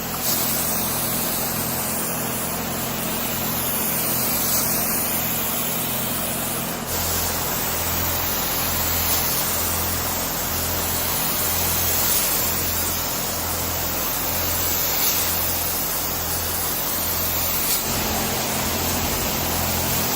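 Compressed-air paint spray gun hissing steadily as paint is sprayed. A low hum underneath pulses roughly once a second from about seven seconds in until near the end.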